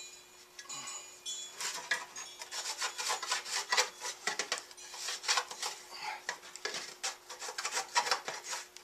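Quick, irregular rasping strokes of hand scraping or abrading, starting about a second and a half in and going on in a rapid run.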